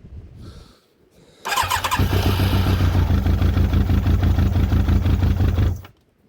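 Yamaha YZF1000R Thunderace's inline-four engine cranked on the starter about a second and a half in, catching and running steadily for about four seconds before cutting out abruptly. It is a cold engine on newly rebuilt carburettors, not yet warmed up and needing throttle to keep running.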